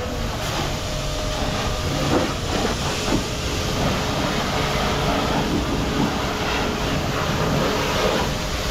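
Pressure-washer water jet spraying a vehicle at a car wash, a steady hiss of water, with a faint steady tone beneath.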